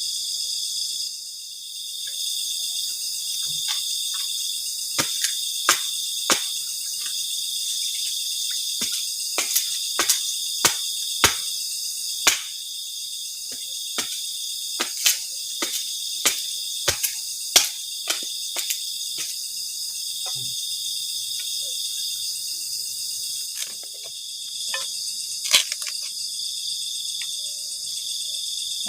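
Steady, shrill chorus of night insects, with a scattered series of sharp knocks and snaps through the middle.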